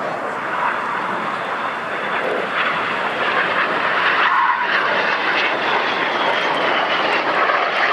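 Jet noise from the Red Arrows' BAE Hawk T1 trainers, their Adour turbofan engines heard as a steady rush that builds slightly while the jets fly tight 6G turns. A faint high whine slowly falls in pitch through the middle.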